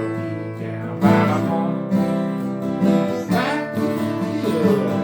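Acoustic guitars strumming chords, with a fresh strum about once a second.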